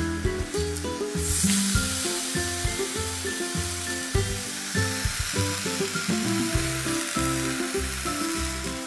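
Eggplant slices sizzling in oil in a frying pan, the sizzle swelling about a second and a half in, under background music.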